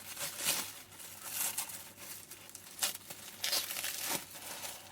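Thin foam tape and its backing being handled, irregular crinkling and tearing rustles.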